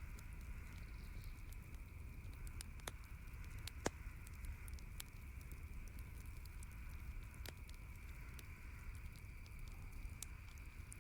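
Campfire crackling: scattered sharp pops and snaps, the loudest about four seconds in, over a steady low rumble and hiss.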